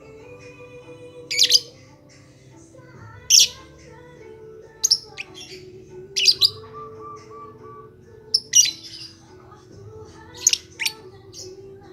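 Lovebird giving short, sharp, high-pitched chirps and squawks, about eight of them a second or two apart, over faint held background tones.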